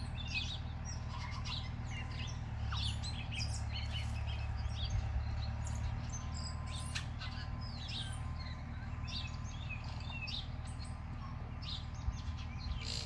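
Small birds chirping, many short high calls overlapping throughout, over a low steady rumble.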